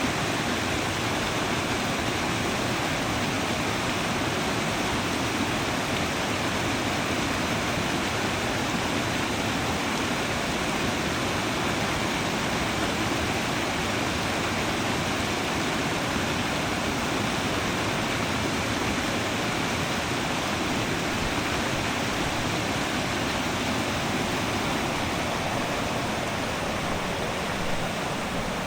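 Fast creek water rushing and churning around and under fallen logs: a steady, dense rush of water with no break.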